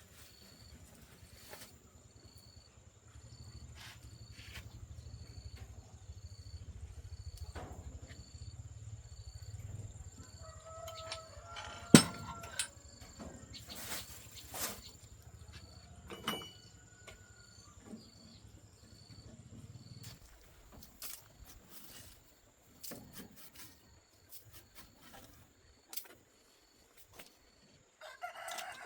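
Scattered clicks and knocks, with one sharp knock about twelve seconds in, over a low hum that runs from about three seconds to twenty seconds. A faint, regular insect-like chirp repeats throughout.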